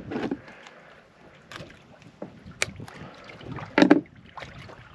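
Scattered light clicks and knocks of tackle being handled on a small fishing boat while a fish is reeled in, with one louder knock about four seconds in.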